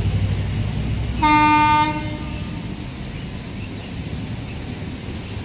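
Train horn giving one short blast about a second in, over the low rumble of the running train, which fades away afterwards.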